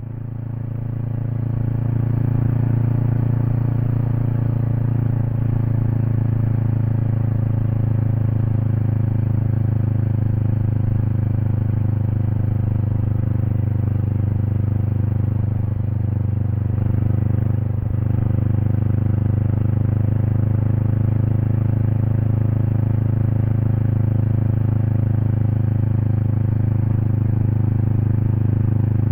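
Exhaust of a Kawasaki Eliminator SE's 398 cc parallel-twin engine through an aftermarket BEAMS header and slip-on muffler, heard close to the muffler, running steadily at an unchanging pitch. It fades in over the first two seconds.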